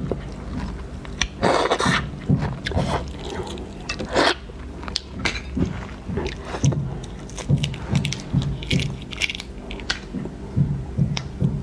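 Eating shellfish close to the microphone: wet chewing, smacking and crackly crunches, with two longer, louder crunching bursts in the first half. In the second half the chewing settles into a steady rhythm of about two chews a second.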